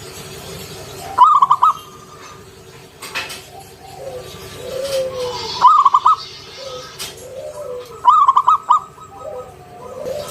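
Zebra dove (perkutut) cooing: three loud bursts of quick, stuttering high notes, about a second in, in the middle and near the end, with softer, lower falling coos between them.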